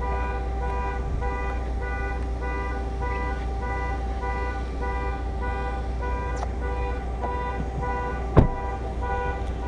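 Electronic warning chime beeping about once a second over a steady low hum. A single sharp click near the end is the loudest sound.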